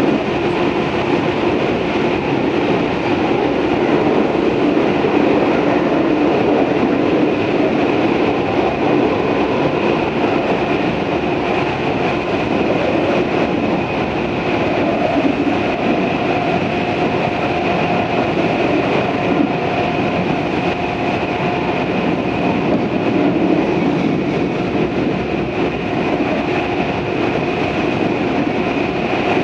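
Tobu 634-type electric train running at a steady speed between stations: a continuous rumble of wheels on rail with a steady hum holding a few even tones from the motors and gearing.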